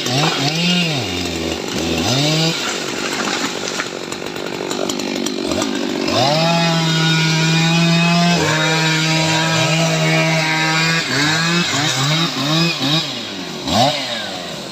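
Stihl MS 881 two-stroke chainsaw running at high revs. The pitch dips and climbs again several times near the start and again near the end, with a steady stretch at full throttle in the middle.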